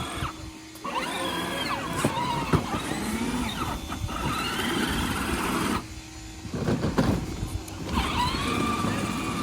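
Electric motors of a kids' battery-powered ride-on tractor, whining with a wavering pitch as it labours in mud. The motors cut out briefly twice, once just after the start and once about six seconds in.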